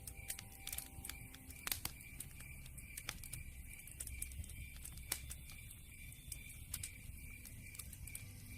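Campfire crackling with sharp, irregular pops and snaps over a low rumble.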